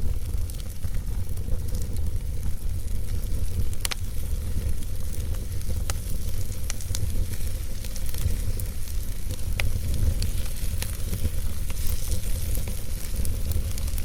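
Wood fire burning in a fireplace: a steady low rumble and hiss with scattered crackles and pops.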